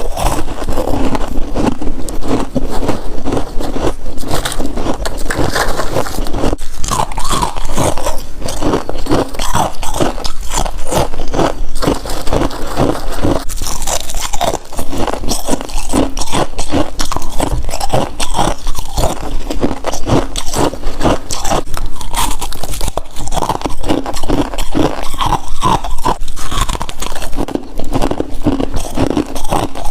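Close-miked biting and chewing of freezer frost: dense, continuous crunching.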